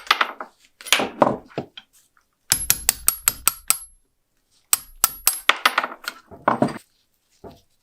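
Sharp metallic clinks and taps from small metal lighter parts being handled or struck, coming in several clusters with a high ringing after each strike, including a quick run of about six taps near the middle.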